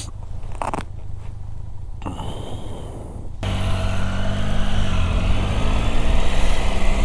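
Motorcycle engine running, a steady low drone that comes in suddenly about three and a half seconds in and wavers slightly in pitch; before that only quieter background noise.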